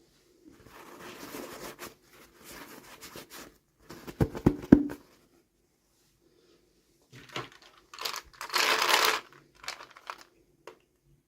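Toy packaging being torn open and crinkled by hand, in several bursts of tearing and crinkling with a few sharp clicks about four seconds in; the loudest tearing comes about two-thirds of the way through.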